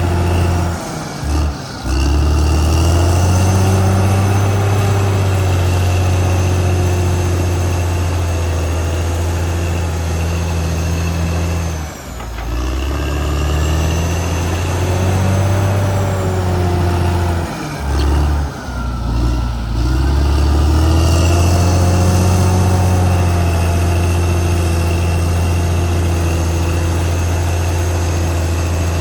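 Caterpillar D6R XL bulldozer's diesel engine running under load, its note dropping briefly and picking back up about a second and a half in, around twelve seconds in, and again around eighteen seconds in.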